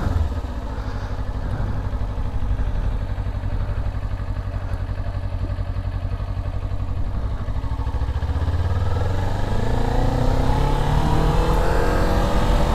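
Motorcycle engine running at low speed, then accelerating from about nine seconds in, its pitch rising.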